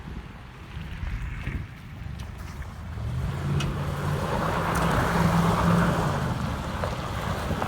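Ford F-150 pickup engine running. About three seconds in its pitch and loudness rise, hold higher for a couple of seconds, then ease back. Wind noise on the microphone.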